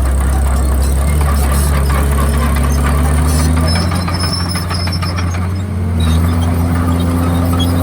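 Komatsu D51PX bulldozer's diesel engine running under load, its pitch sagging about halfway through and climbing back near the end.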